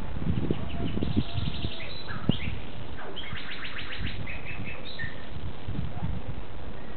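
Small birds singing outdoors: two quick trills of rapidly repeated high notes, about a second in and again about three seconds in, then a few short chirps, over a low rumbling background noise.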